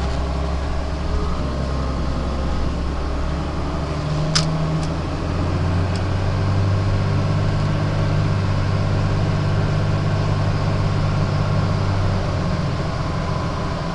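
1997 Dodge Ram 2500's 5.9-litre Cummins inline-six turbodiesel running as the truck is driven, heard from inside the cab. Its drone rises in pitch about four to six seconds in and then holds steady, with one sharp click about four seconds in.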